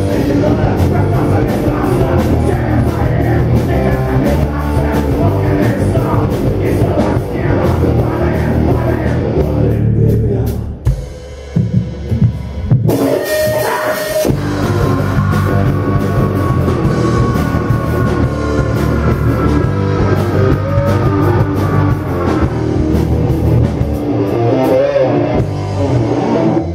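Live rock band playing loud with drum kit and electric guitar, with a brief break about eleven seconds in and a sudden loud burst before the band comes back in.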